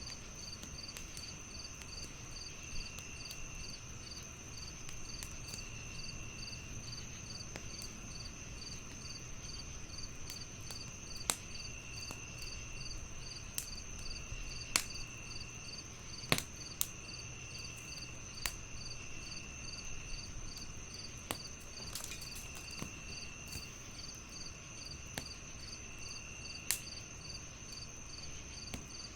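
Crickets chirping in several layers: a steady high trill, a fast pulsing chirp, and a lower chirp that sounds for about a second every two seconds. A wood fire crackles through it, with sharp pops scattered irregularly, the loudest about halfway through.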